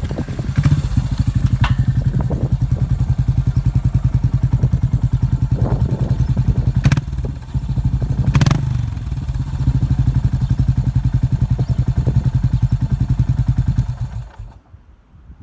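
Yamaha SR400 single-cylinder four-stroke engine idling through a New Gate SR-VCT Type S aftermarket muffler, a steady, evenly pulsing exhaust thump. Two sharp clicks come partway through. The engine cuts off near the end.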